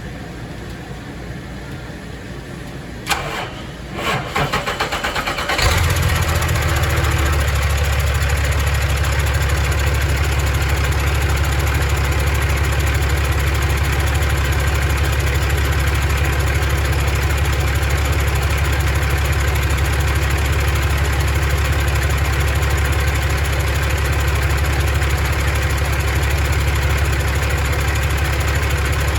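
Caterpillar C13 inline-six diesel engine started: a click, about a second and a half of cranking, then it catches about five and a half seconds in and settles into a steady idle.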